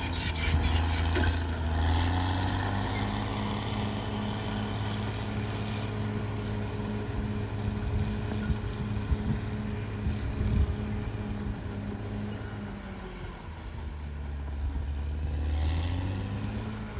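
Caterpillar D6R XL bulldozer's diesel engine running steadily under load, with scattered knocks and clanks. The engine dies down about thirteen seconds in, then revs back up near the end.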